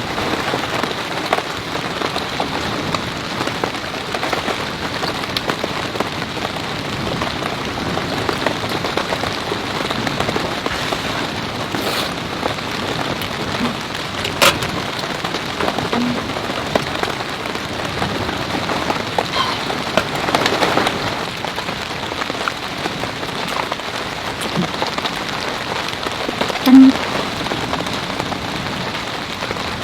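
Heavy rain falling steadily, with scattered sharp drip clicks. A short low knock near the end is the loudest sound.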